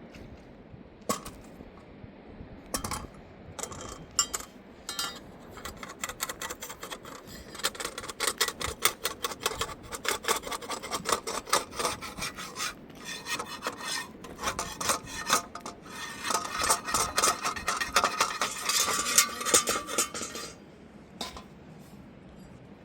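Rapid, rhythmic scraping strokes, several a second, of something hard rubbing against a surface. They start as scattered scrapes, run steadily for most of the time and stop shortly before the end.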